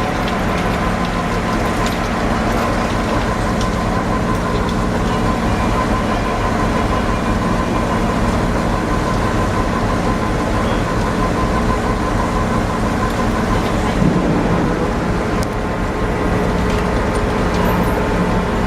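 Steady, loud din of fish-unloading machinery and engines: a continuous rumble with steady hum tones, and one knock about fourteen seconds in.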